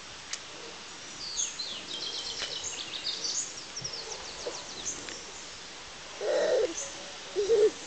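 Wild birds singing: a quick run of high, falling chirps. Near the end come two low cooing calls, the loudest sounds here.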